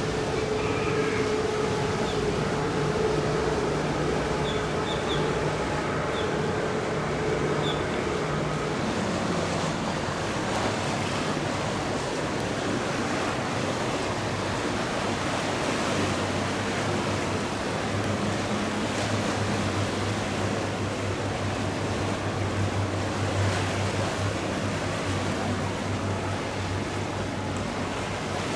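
Boat engines running as powerboats pass through the inlet, over a steady wash of waves and wind. One engine's pitch falls away about eight seconds in, and a lower engine drone comes in about halfway through.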